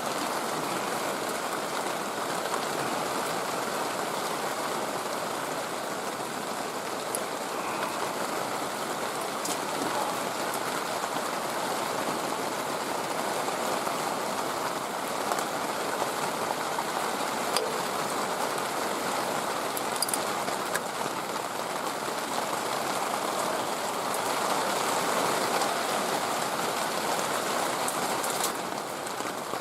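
Steady rushing noise with a few faint scattered clicks.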